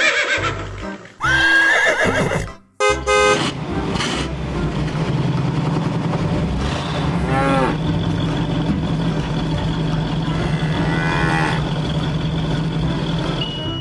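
Horse whinnying: the tail of one whinny at the start and another about a second in, with a short run of quick pulses after. A long, steady, noisy sound with a low hum then fills the rest.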